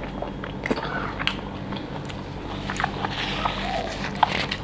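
Close-up mukbang eating sounds: wet chewing and lip-smacking of pork curry and rice, with many short, sharp mouth clicks scattered throughout. A faint steady low hum runs beneath.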